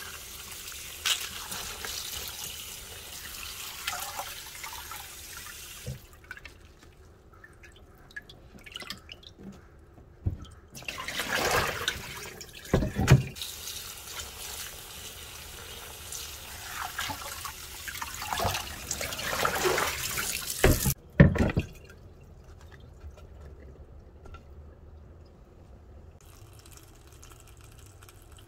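Kitchen tap water running and splashing in a sink as vegetables are rinsed. It comes on and off in stretches, with a few sharp knocks against the sink.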